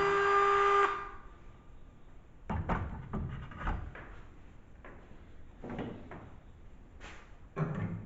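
A music track ends about a second in, followed by faint, scattered knocks and rattles of objects being handled in a workshop, in a few short clusters.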